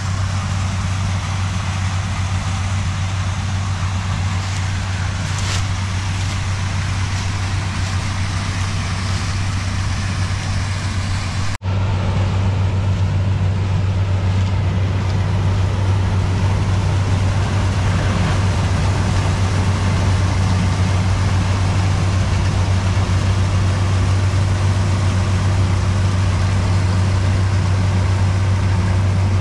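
Diesel engine of a Zmaj 142 combine harvester running steadily under load while threshing corn, a deep even drone. It cuts out for an instant a little before halfway, then carries on slightly louder.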